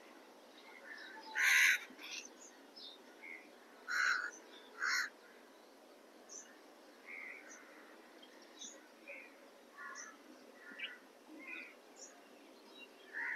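Scattered bird calls over a faint background hiss. Three louder calls come about one and a half, four and five seconds in, with fainter short chirps between.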